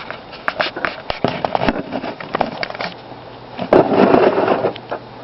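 Handling noise from a feeder-cricket container being opened and rummaged: a run of sharp clicks and crackly rustles, with a louder burst of rustling for about a second near the end.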